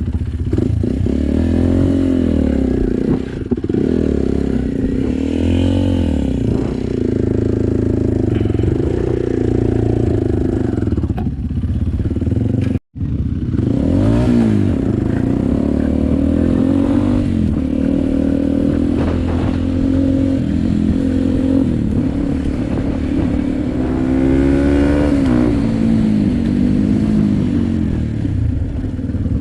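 Dirt bike engine revving, its pitch rising and falling again and again as the throttle opens and closes. The sound drops out for an instant about halfway through.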